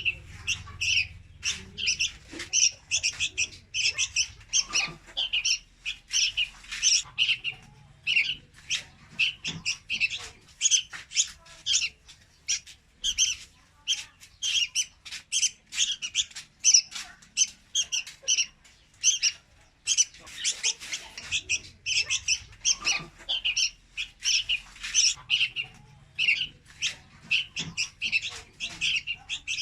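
Young red-whiskered bulbul calling: a rapid, unbroken string of short, high chirps, several a second.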